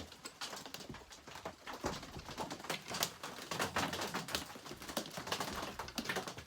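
Irregular clicks and light metallic clatter of hand tools working on chainsaw parts, a bolt being started on a mount without the right socket.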